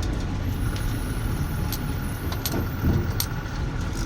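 Truck's diesel engine running, heard from inside the cab, with scattered light rattling clicks.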